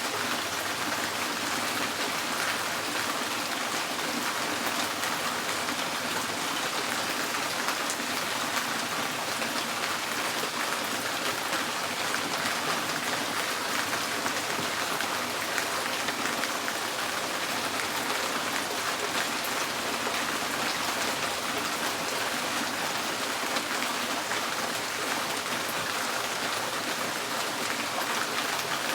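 Steady rain drumming on a tin roof: a dense even patter of drops on the metal.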